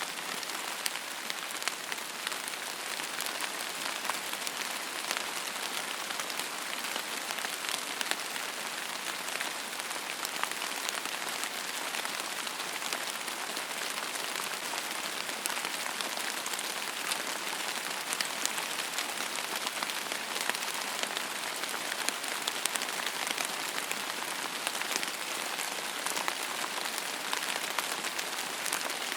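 Steady rain falling on a surface: a continuous hiss dotted with the sharp ticks of individual drops.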